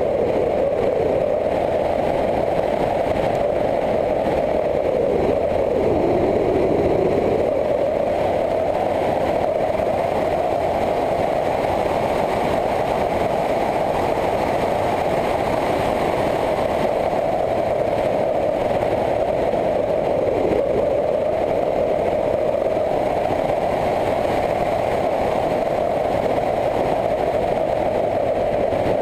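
Motorcycle engine running steadily while riding along. Its note drops briefly about six seconds in, then climbs back, with a smaller dip later on.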